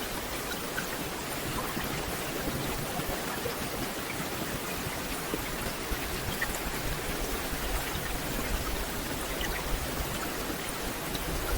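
Steady rain falling on a forest canopy: an even hiss with scattered single drop taps.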